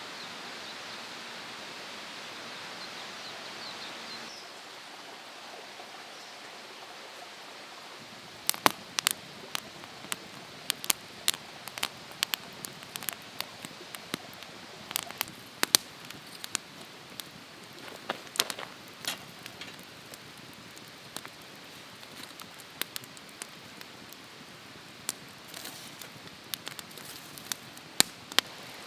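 Wood campfire crackling, with irregular sharp pops starting about eight seconds in over a steady outdoor background noise.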